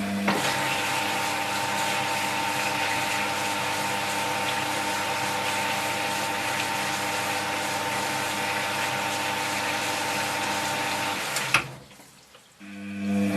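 Hoover HTC 172 washing machine taking in water during its prewash fill: a steady rush of water through the inlet valve with a thin whine. It cuts off abruptly with a click about eleven and a half seconds in.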